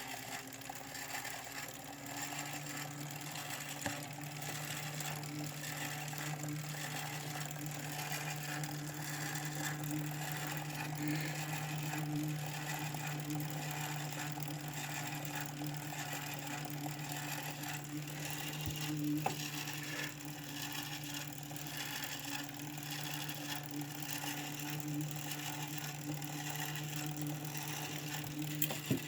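Wahoo Kickr (2017) bike trainer running steadily with a hum and a scraping noise that swells about once a second.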